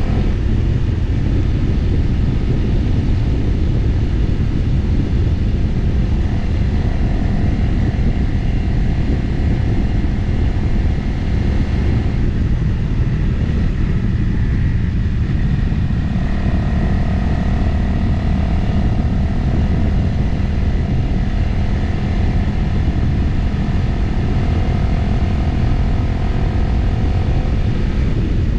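Motorcycle engine running at a steady cruise, with heavy wind rushing over the microphone. The engine note drops back for a few seconds about halfway through, then steadies again.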